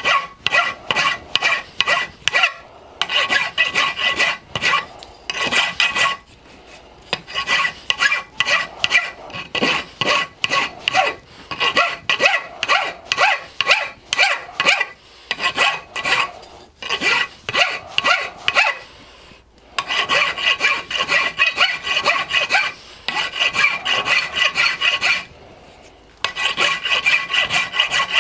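Hand file rasping back and forth to file a threaded insert flat with the face, in quick strokes a few a second, in runs broken by short pauses, with a faint metallic ring under the strokes.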